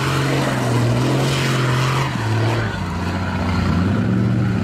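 A car engine running with its pitch dipping and rising gently, over a steady hiss.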